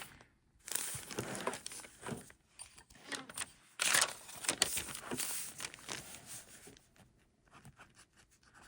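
Paper rustling and scratching, heard as irregular strokes of paper being handled and written on, with the loudest strokes in the first half and softer scratches near the end.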